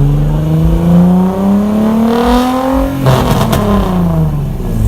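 An engine revving hard: its pitch climbs steadily for about three seconds, then breaks off and falls back as the revs drop.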